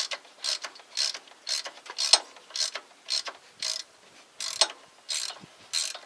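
Hand ratchet wrench worked in steady strokes, giving a burst of ratcheting clicks on each back-swing, about two a second, with a brief pause near the middle.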